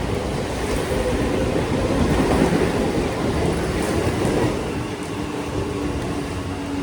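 Train running along the tracks, a steady rumble of wheels on rail that eases off a little about two-thirds of the way through.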